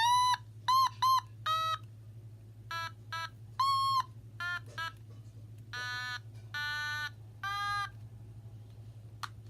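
Otamatone played in about a dozen short, separate notes at varying pitches, some bending slightly in pitch as they start or end, over a steady low hum. A single click near the end.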